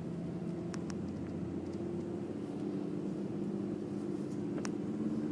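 Four-wheel-drive vehicle's engine running steadily while driving, a low even hum, with a few faint clicks.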